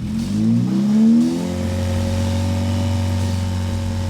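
VW MK7 GTI's 2.0-litre turbo four-cylinder breathing through an AWE Touring Edition exhaust with a MAPerformance downpipe. It revs up from idle over about a second and a half, then holds steady at about 2,500 rpm.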